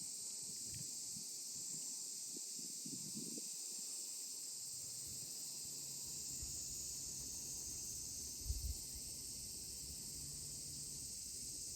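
Steady, high-pitched chorus of insects trilling in the countryside, an unbroken hiss-like drone. A brief low bump is heard about eight and a half seconds in.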